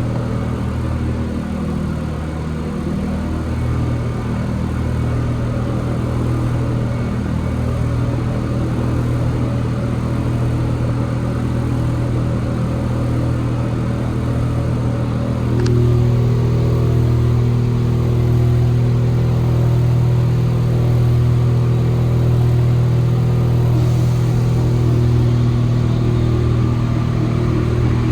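Inside an Alstom NS-74 rubber-tyred metro car in motion: a steady low hum over rolling noise. About halfway through there is a single click, after which the hum grows louder and holds.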